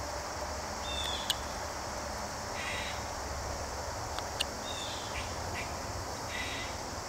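Carving knife cutting basswood: a few sharp clicks and two short scraping slices as chips are taken off, over a steady outdoor background.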